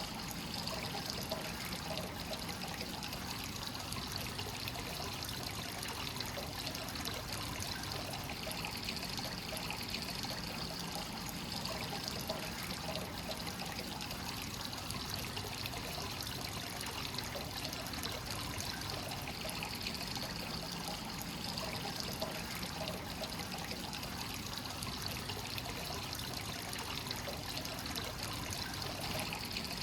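Hot-spring water pouring steadily from the spout into a rock bath, a continuous splashing trickle with no change in flow.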